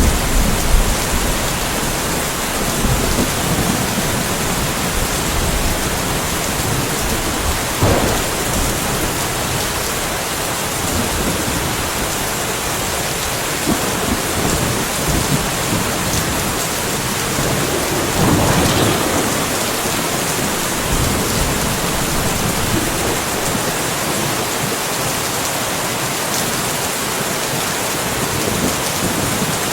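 Steady rainfall with thunder. Low rumbles come near the start, a sharp crack about eight seconds in, and a longer rolling rumble a little past the middle.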